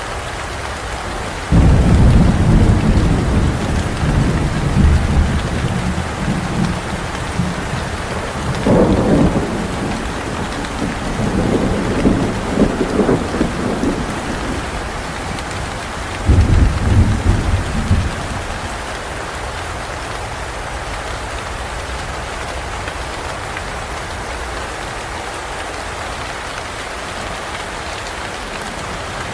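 Steady heavy rain with thunder. A loud rumble breaks in suddenly a couple of seconds in and rolls for several seconds, further rumbles follow, and a last loud peal comes about halfway. After that only the rain continues.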